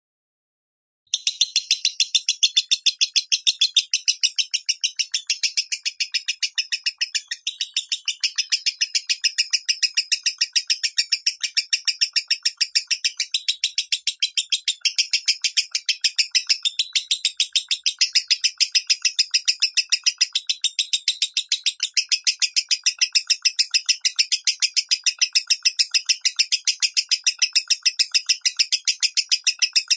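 Lovebird singing its 'minor' song, a long unbroken run of rapid high chirps that starts suddenly about a second in and keeps a steady pace.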